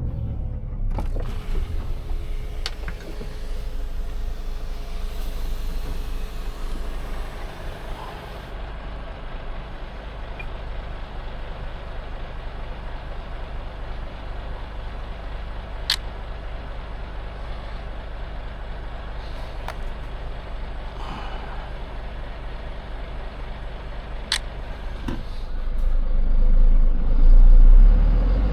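Scania truck's engine and road noise heard from the cab while driving: a steady low rumble, with two sharp clicks midway and the engine growing louder near the end.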